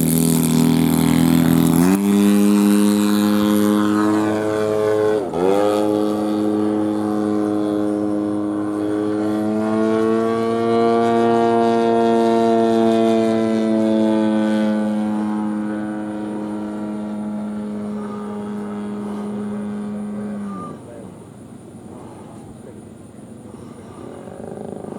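GP123 engine of a 140-inch Legacy Aviation Bushmaster model airplane running with its propeller. It steps up in speed about two seconds in, dips and recovers briefly around five seconds, then runs steadily with a slight rise in the middle. It winds down and stops abruptly about twenty-one seconds in.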